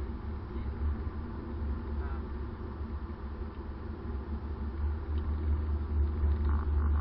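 Steady low rumble of engine and road noise inside the cabin of a 2013 Subaru BRZ driving along at low speed.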